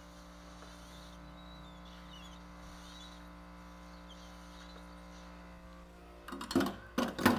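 Steady hum of a nitrogen plastic welding unit with a built-in nitrogen generator running while the weld is smoothed. Near the end, a few loud sharp knocks and clatter of tools being handled.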